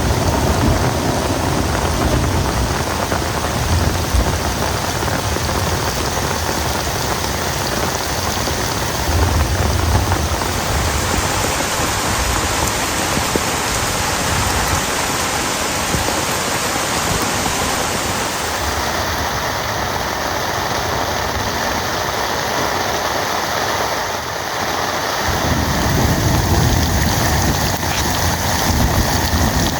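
Heavy rain falling steadily, a dense even hiss of drops. A low rumble sits under it for the first third and comes back near the end, and the sound of the rain shifts abruptly a few times.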